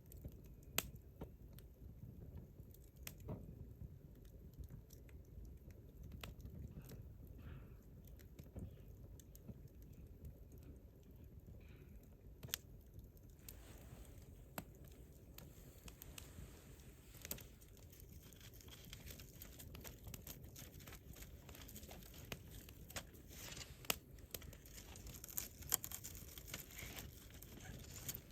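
Wood campfire crackling: irregular sharp pops and snaps over a faint low rumble, the snaps coming thicker in the second half, with a few louder pops near the end.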